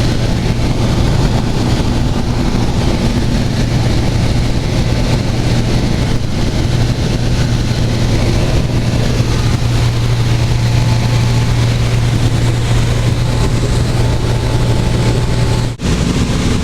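Steady drone of a small light aircraft's piston engine and propeller, heard from inside the cabin in cruise flight. A brief break about a second before the end, after which the drone carries on.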